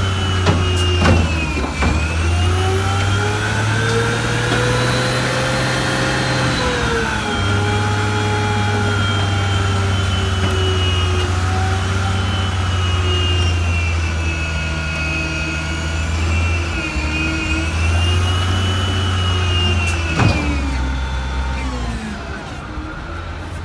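Diesel engine of a 1989 WhiteGMC Xpeditor garbage truck revved hard to run its packer, the pitch rising and falling in long sweeps. The engine drops back and gets quieter near the end.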